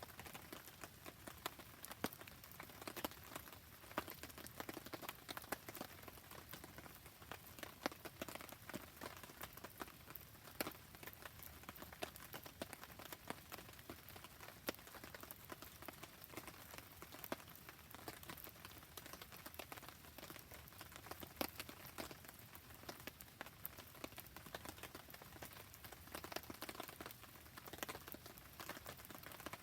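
Faint, steady rain falling, with many scattered sharp clicks and pops from a crackling wood campfire.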